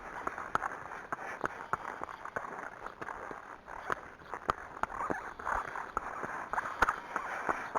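Arabian horse walking, its hooves making a scatter of irregular clicks and knocks on the track.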